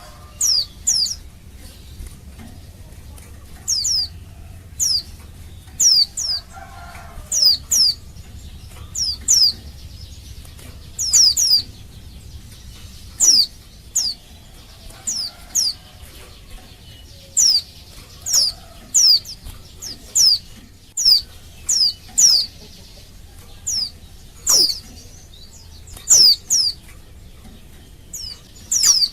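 Female white-eye (pleci) calling: short, high chirps that slide downward, given singly or in quick pairs and triplets about once a second. This is the female's call to males, the kind that sets male white-eyes answering.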